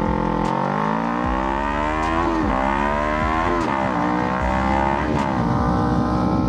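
Kawasaki Ninja 300's parallel-twin engine accelerating under load: its pitch climbs, drops sharply with an upshift about two and a half seconds in, climbs again, and drops with another shift. After that it settles into a steadier, lower cruise.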